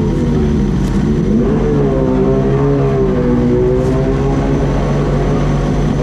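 Motorcycle engine rising in pitch and then falling back, over a steady low engine drone.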